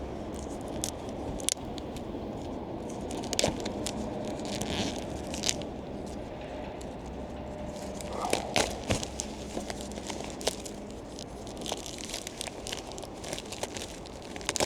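Packaging crinkling and tearing as a compact folding fire pit is unpacked, with scattered clicks and knocks from its parts being handled and a cluster of louder knocks about halfway through.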